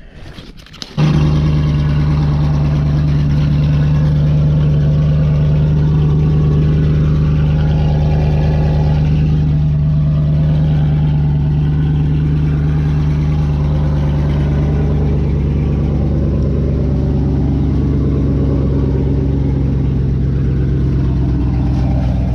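Cammed Chevrolet 4.8 V8 truck engine catching after a second of cranking, then idling steadily and loudly.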